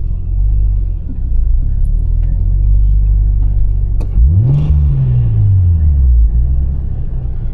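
Sports car engine running with a steady low drone. About four seconds in it revs up briefly and then eases back down over a couple of seconds.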